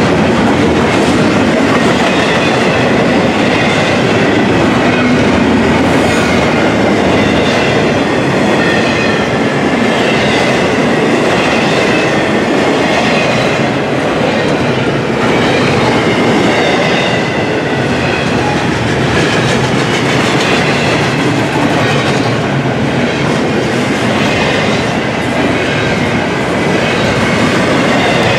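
Double-stack intermodal well cars of a freight train rolling past at close range: a loud, steady rumble and clatter of steel wheels on rail.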